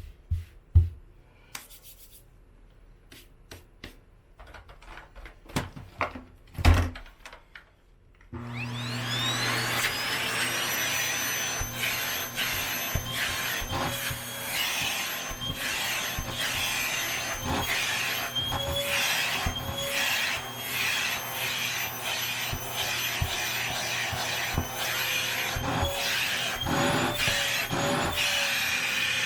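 A few light knocks and handling sounds, then about eight seconds in a vacuum cleaner switches on, its motor whine rising quickly to speed. It then runs steadily, cleaning cat hair off a blanket.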